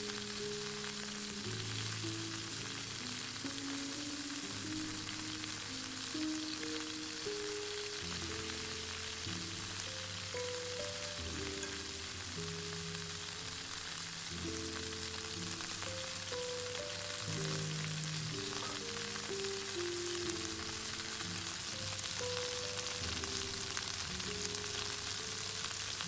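Food frying in a pan, a steady sizzle, with background music of low melodic notes underneath.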